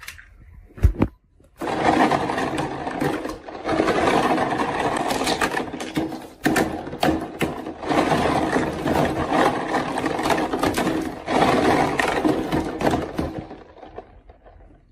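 Marbles rolling and clattering down a wooden marble run, a continuous rattling roll dotted with sharp clicks, coming in several long stretches with short breaks. A single thud about a second in.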